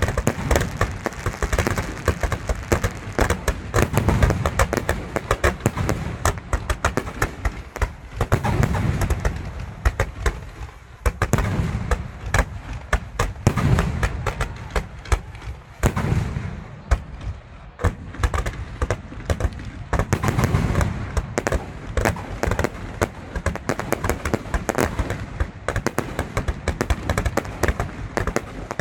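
Fireworks display: a dense run of sharp pops and crackles, with deeper booms every few seconds.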